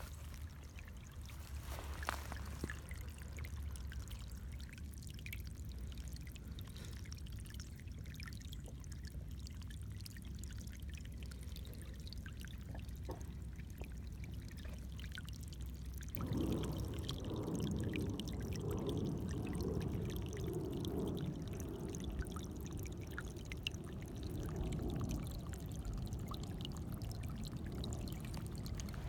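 Steady rushing sound like running or trickling water, coming in strongly about halfway through over a low rumble.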